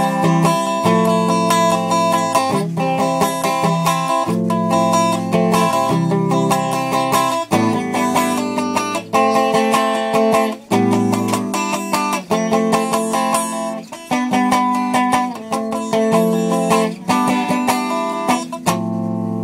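Fender Stratocaster electric guitar being played, a run of picked chords and single notes, ending on a held chord that rings out near the end.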